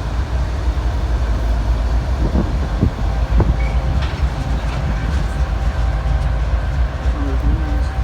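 Freight train cars rolling past at close range: a loud, steady low rumble with a few sharp clanks near the middle and faint steady wheel squeal above it.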